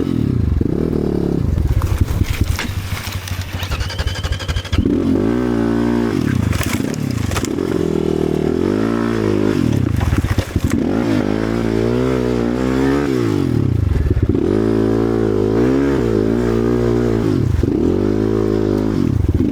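Enduro motorcycle engine revved up and down over and over, each burst rising in pitch and falling back within a second or two. The engine runs lower and steadier for the first few seconds.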